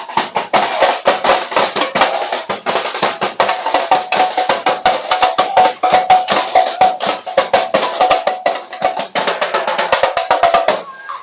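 Street-dance music: drums and snares beating a fast, dense rhythm under a sustained melodic line. It cuts off suddenly near the end.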